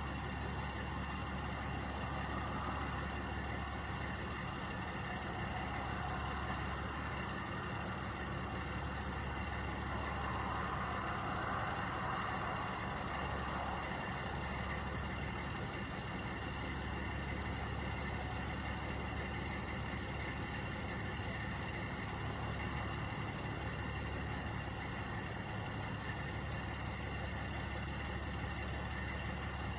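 Two trucks' engines idling steadily, a constant low drone, with a slight swell in the mid-range about ten seconds in.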